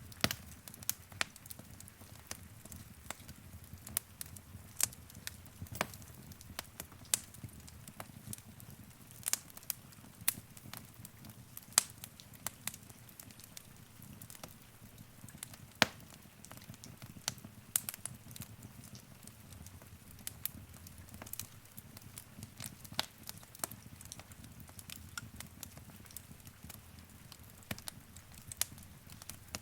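Wood fire burning in a fireplace: irregular sharp crackles and pops, several a second with louder snaps now and then, over a low steady rumble of the flames.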